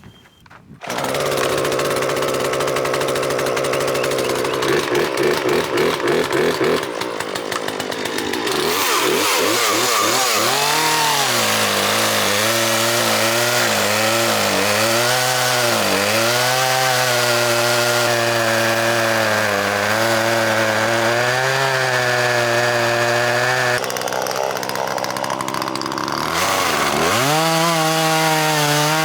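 Poulan Pro 4218 two-stroke chainsaw starting about a second in and running steadily. From about ten seconds on its engine pitch dips and rises again and again.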